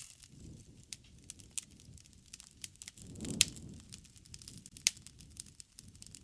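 Wood fire crackling with irregular sharp pops over a low rumble of flames. The rumble swells a little past the middle, and two pops stand out, one about three and a half seconds in and another near five seconds.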